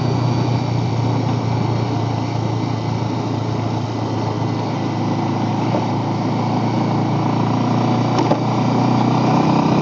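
Bajaj Pulsar 150 motorcycle riding along, its single-cylinder engine running at a steady speed under road and wind noise, growing a little louder near the end.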